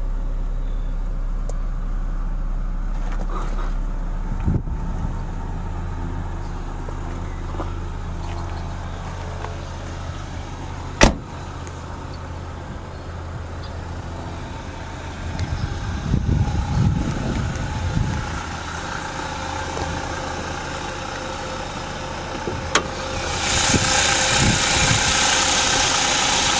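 A 1998 Nissan Altima's four-cylinder engine idling steadily. A single sharp click comes about eleven seconds in, and a steady rushing hiss joins near the end.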